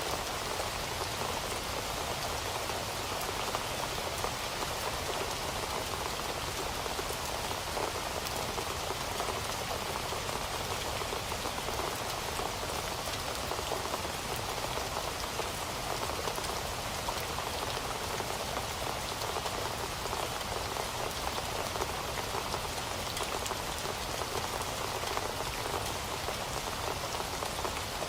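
Heavy rain falling steadily, a dense even hiss with fine scattered drop ticks.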